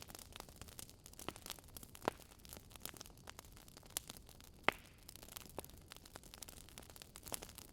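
Wood fire burning in a fireplace: irregular crackling and small pops over a faint hiss, with one sharper pop a little past halfway.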